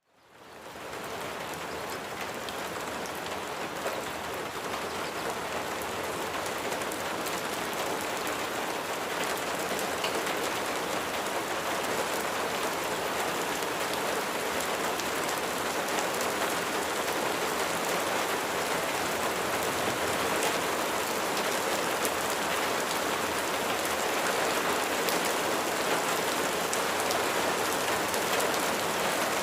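Steady rain falling on a surface, a dense even patter with scattered sharper drops, fading in over the first second and slowly growing a little louder.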